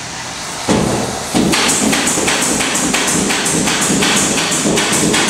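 A quick, even run of sharp knocks or strokes, about three a second, from hand work on the insulation.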